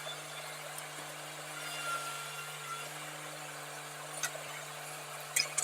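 Tractor engine running steadily, a constant low hum, with a faint brief high squeal about two seconds in and a couple of light clicks near the end.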